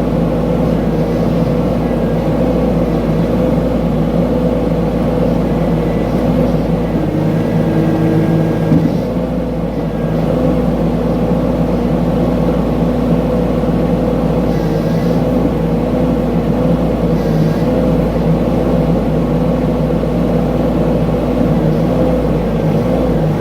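Mini excavator's engine running steadily while digging. About seven seconds in, a higher steady tone joins it for a second or two and ends in a short loud knock.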